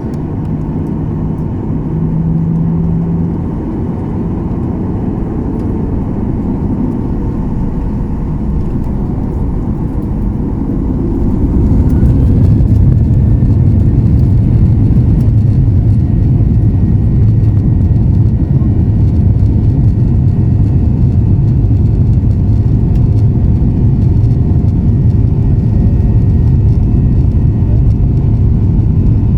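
Jet engines of a Boeing 737 running on the ground: a steady low rumble with faint steady tones above it, getting louder about a third of the way through.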